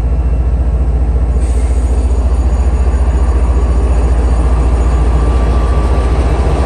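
MBTA HSP46 diesel-electric locomotive's engine running at idle: a loud, deep, evenly pulsing rumble. A steady hiss joins in about a second and a half in.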